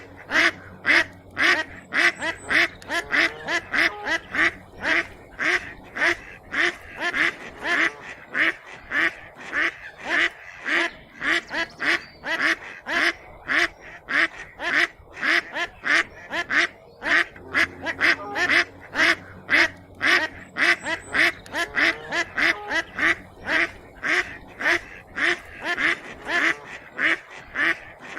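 Ducks quacking in a rapid, unbroken run of calls, about two or three a second.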